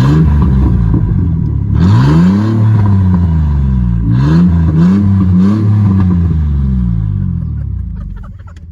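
Chevy S10 pickup engine running with its muffler removed, revved in several blips. It rises at the start, gives a longer rev about two seconds in that falls away slowly, then three quick blips in the middle, before dropping back toward idle near the end.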